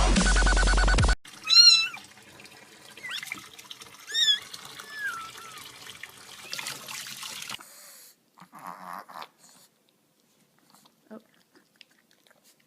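Electronic dance music cuts off about a second in. Then a domestic cat meows four or five times, high and wavering, over a faint steady hiss, before it goes nearly quiet a few seconds before the end.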